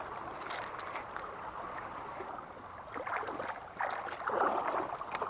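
Creek water sloshing and splashing, getting louder and more broken from about three seconds in.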